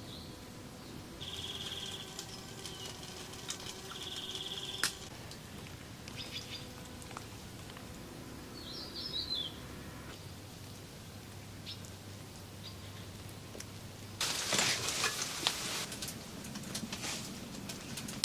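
A few short bird chirps over a quiet background, with a steady high buzz for about three seconds near the start and scattered clicks. About fourteen seconds in comes a louder two-second burst of noise with clicks.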